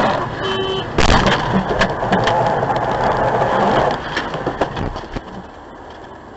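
Car crash on dashcam audio: a sudden loud impact about a second in, followed by a rush of noise with scattered sharp clicks, dying away after about four seconds.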